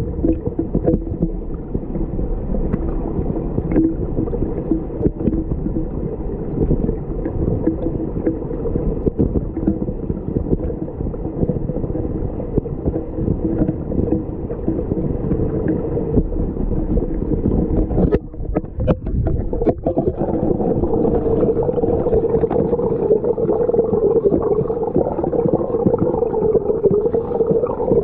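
Muffled, steady rush and gurgle of river water picked up by a microphone underwater. There is a brief break about two-thirds of the way in, after which it is a little louder.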